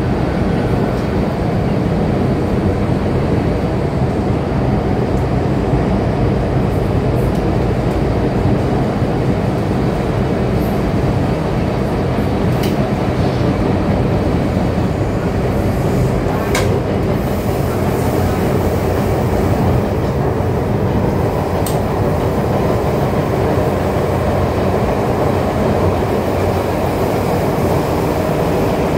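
Disneyland Resort Line train running steadily, heard from inside the car: a continuous low rumble of wheels and running gear, with a few faint clicks.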